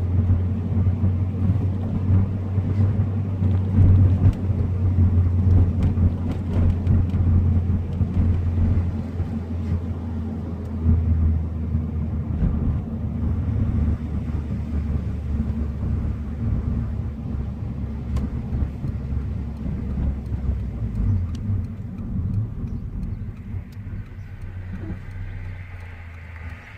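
Honda VTEC car's engine and exhaust running with a steady low drone, growing quieter over the last few seconds.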